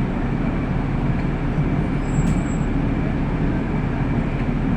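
Steady engine and road noise inside a city bus's passenger cabin while it drives along.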